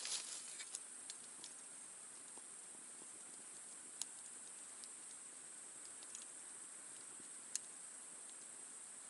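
Wood campfire burning low: faint, scattered crackles, with two sharper pops, one about four seconds in and one near seven and a half seconds, over a soft steady hiss.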